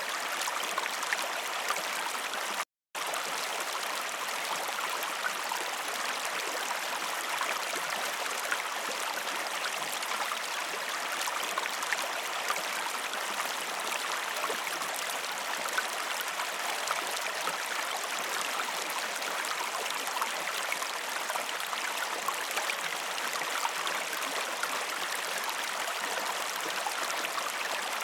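Waterfall water rushing and splashing in a steady, even wash, cutting out completely for a split second about three seconds in.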